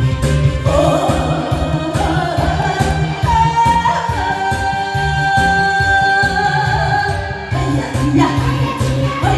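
Korean trot song: a woman singing long held notes over a backing track with a steady beat.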